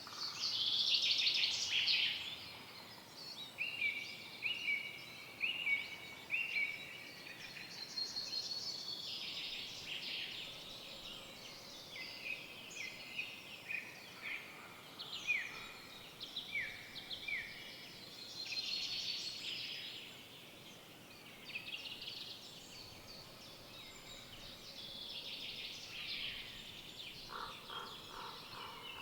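Several forest songbirds singing at once: overlapping high chirps and trills, with a run of repeated downward-slurred whistled notes a few seconds in and again around the middle, over a faint steady background hiss.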